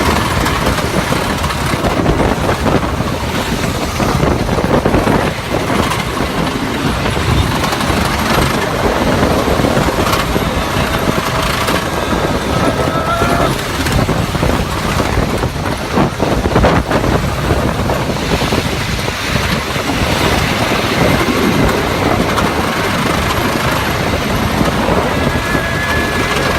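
Ride on the Ghost Rider wooden roller coaster: the loud, steady rumble of the coaster train running on its track, mixed with wind noise.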